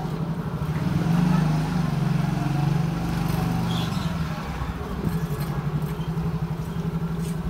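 Motorcycle engine running steadily at low riding speed, heard from on the bike, with road and wind noise; it swells slightly about a second in.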